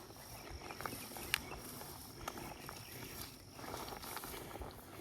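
An insect's steady high-pitched drone that stops about four seconds in, over an even outdoor hiss, with a few sharp clicks, the loudest about a second and a half in.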